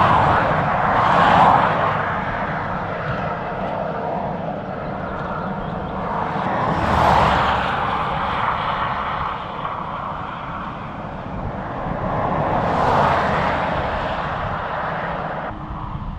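Honda CBR600RR's inline-four engine and exhaust running at highway speed with wind rush, the noise swelling louder three times: about a second in, around seven seconds and around thirteen seconds.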